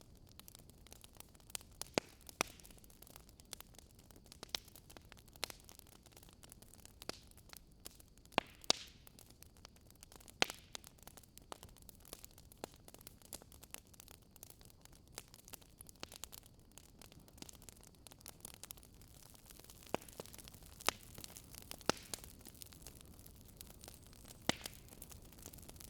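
Fireplace crackling: wood fire giving irregular sharp pops and snaps over a low steady hiss.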